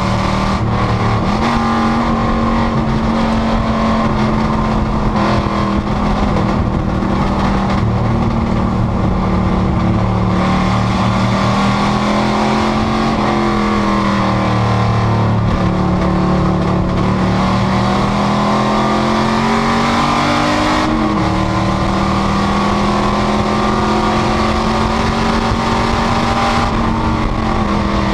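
Panoz GTS race car's V8 engine running hard at racing speed. Its note holds steady for long stretches and climbs and falls with the throttle, dropping sharply about three-quarters of the way through.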